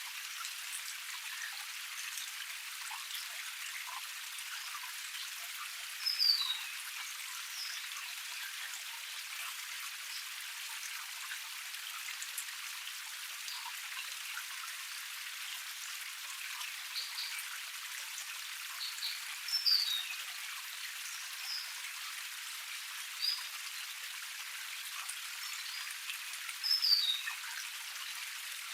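Water of a small forest cascade splashing and trickling steadily over rock, bright and hissy with no low rumble. A bird gives a short falling chirp three times, about every six or seven seconds, and fainter calls come in between.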